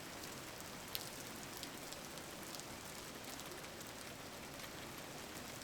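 Steady rain falling, an even hiss with scattered drop ticks, one slightly sharper about a second in.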